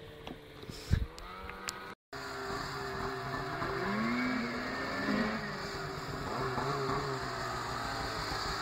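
Snowmobile engines revving up and down, their pitch rising and falling, after a sharp knock about a second in.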